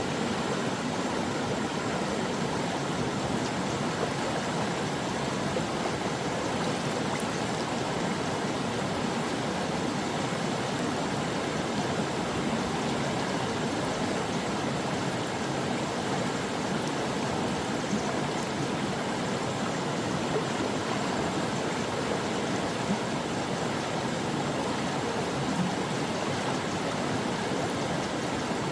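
A stream running steadily over rocks, an even rushing and gurgling of flowing water.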